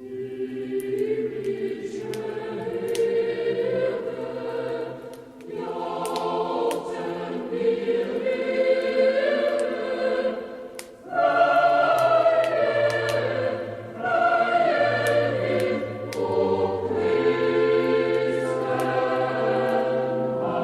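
Choir singing a slow Christmas song in sustained chords, phrase by phrase, with brief breaks about five, eleven and fourteen seconds in.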